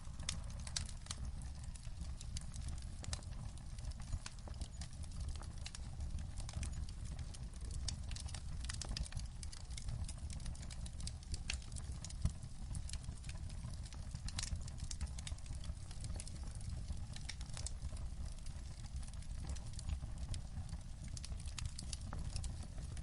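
Wood fire crackling in a fireplace: frequent irregular sharp pops and snaps over a low steady rumble, with one louder pop about twelve seconds in.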